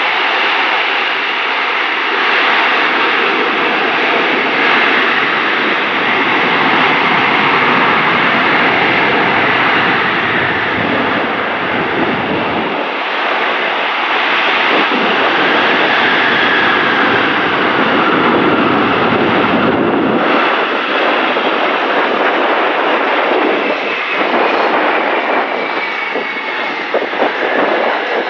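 Loud, steady jet roar of a C-17 Globemaster III's four Pratt & Whitney turbofan engines during an assault landing and short landing roll, with the engines in reverse thrust for braking. The roar shifts in tone a couple of times as the engine power changes.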